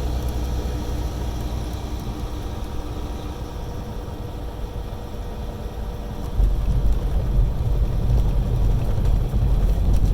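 Semi truck's diesel engine running, heard from inside the cab as a steady low rumble that gets louder about six seconds in.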